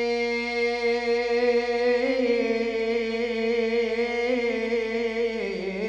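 A man's voice chanting a Shia mourning elegy (latmiya/nai), holding one long sung note with a slight waver. It dips briefly near the end, and no instruments are heard.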